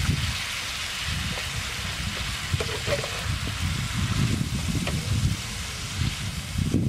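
Leafy greens sizzling in a frying pan on a portable gas stove as they are stirred with a spatula, a steady hiss over a low rumble.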